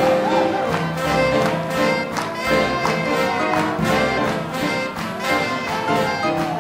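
Big band playing hot swing jazz, with the brass section to the fore over a steady beat.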